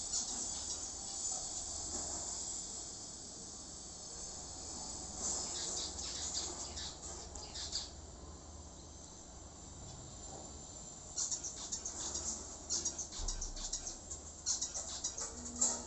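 Zebra finches chirping: bouts of rapid, high-pitched cheeping near the start, again in the middle, and busiest in the last few seconds.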